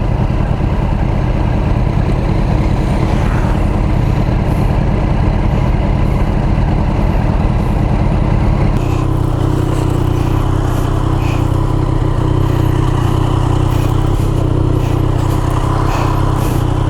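Triumph Street Triple's inline three-cylinder engine running steadily under way, with road and wind noise; the engine note shifts about halfway through.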